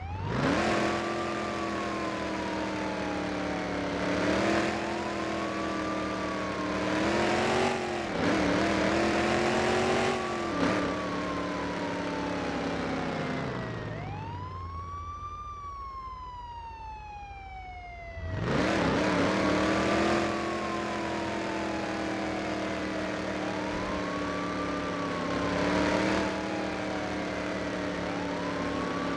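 Police siren wailing: each cycle rises quickly in pitch and then falls slowly, repeating every few seconds. A lower steady drone runs underneath, dropping out for about four seconds midway so that only the siren sweep is heard.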